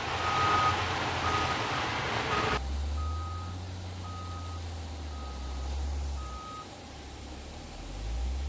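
Reversing alarm on heavy quarry machinery beeping steadily, about one beep a second, seven beeps that stop about six and a half seconds in, over the low rumble of a diesel engine. A hiss of background noise cuts off suddenly about two and a half seconds in.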